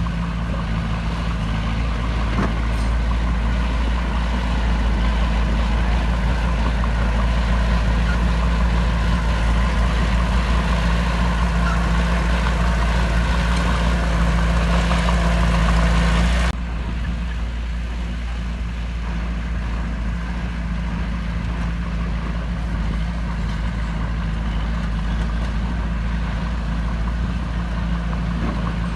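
Heavy diesel engine of earthmoving equipment running steadily, with a low rumble and a drone. A little past halfway it drops abruptly to a quieter steady engine sound.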